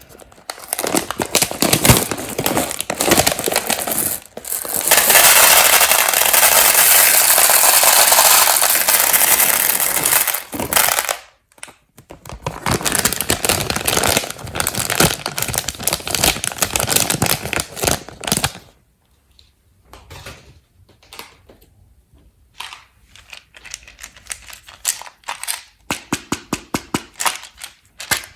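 Plastic candy wrapper crinkling and peanut M&M's clattering against a hard surface. There is a stretch of steady rustling in the middle. After that come sparser single clicks that end in a quick run of ticks.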